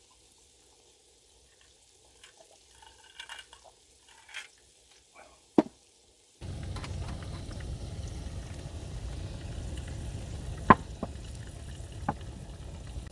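Light clicks and scrapes of handling cookware, then food frying in a pan: a steady sizzle sets in suddenly about six seconds in, with a couple of sharp pops.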